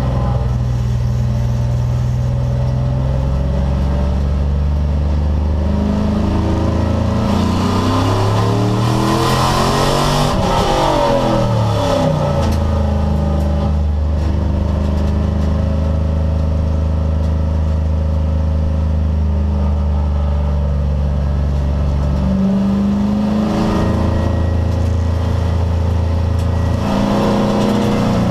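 Road-racing car's engine running hard, its pitch holding steady for long stretches and stepping down at gear changes. From about eight to twelve seconds in, other engine notes rise and fall across it as other cars run close.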